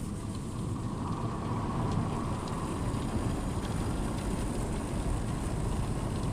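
Automatic car wash running, heard from inside the car's cabin: a steady low rumble and rush.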